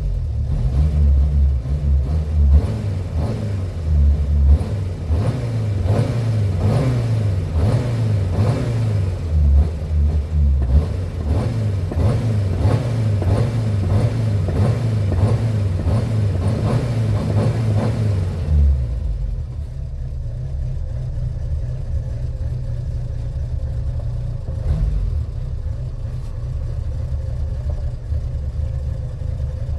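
Renault 4's four-cylinder engine running after being flooded, revved repeatedly with short throttle blips, then settling to a lower steady idle about eighteen seconds in.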